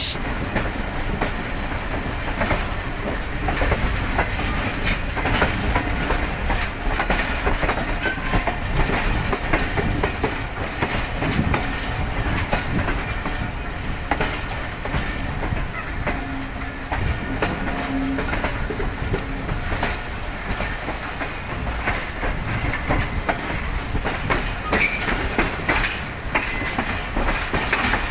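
Pakistan Railways passenger train rolling steadily by, its wheels clacking over the rail joints with a little wheel squeal.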